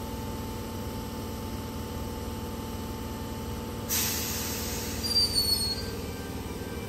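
Tangara electric train standing at the platform with a steady hum. About four seconds in comes a sudden loud hiss of air as its brakes release, followed by brief high squeals as it starts to pull away.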